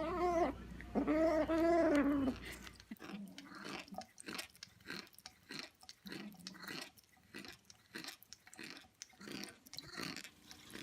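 A cat gives two meows, the second drawn out for over a second, then chews something with a steady run of short crunching bites.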